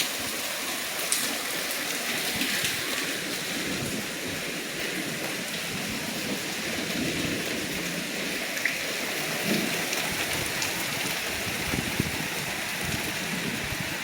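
Heavy rain and hail coming down in a thunderstorm: a steady hiss of rain with scattered sharp ticks of hailstones hitting hard surfaces.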